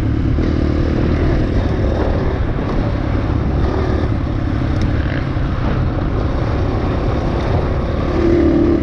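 Dirt bike engine running under way on a trail, with steady engine noise and rumble. The engine note strengthens and rises briefly near the end.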